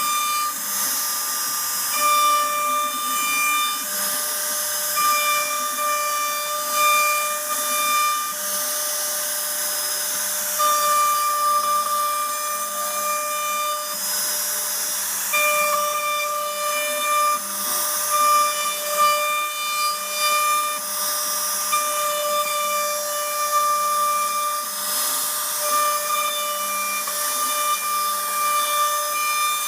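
CNC router spindle whining as it cuts wood, over a steady hiss; the whine breaks off and comes back every few seconds.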